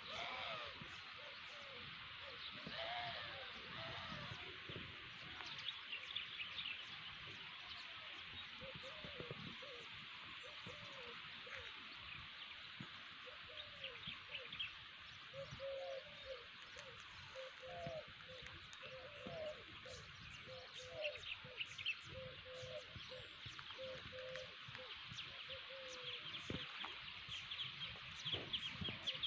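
Birds calling outdoors: a low call repeated many times, with higher short chirps scattered through, over a steady hiss.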